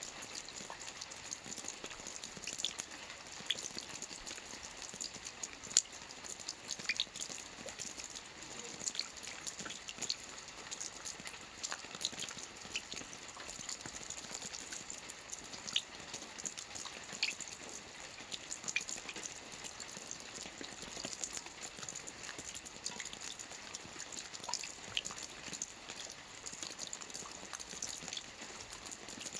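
Steady soft rain on a roof: an even hiss of falling rain with many light, sharp drop ticks scattered throughout.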